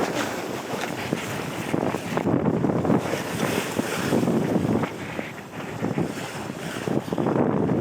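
Wind buffeting the microphone over the wash of waves aboard a sailing boat under way at sea, rising and easing in irregular gusts.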